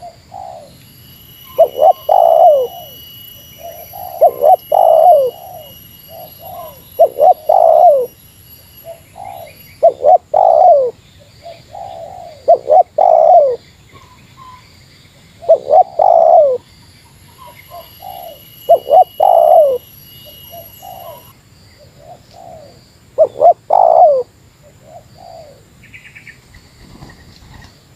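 Spotted dove (tekukur) cooing in the 'meratus' style: a short, loud phrase of rolling coos every two to three seconds, with a longer pause a little past the middle.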